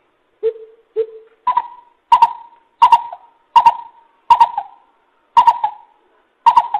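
Greater coucal calling: a string of deep, hollow hoots, the first two lower, then seven higher ones at about one and a half a second. This is the call used as a lure for trapping coucals.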